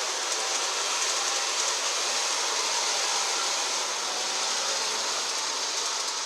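G scale model locomotive running along the track: a steady whirring hiss of its motor, gears and wheels, with a faint whine.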